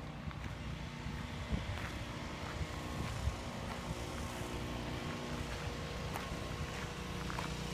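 Steady low hum of an idling engine, with a few light clicks and knocks.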